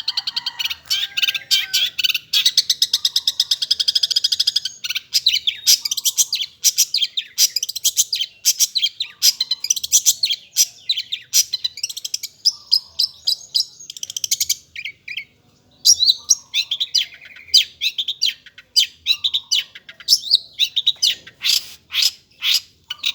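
Long-tailed shrike (cendet) singing gacor, non-stop: a very fast run of repeated high notes for the first few seconds, then a varied stream of sharp chirps and trills, with a brief pause about 15 seconds in.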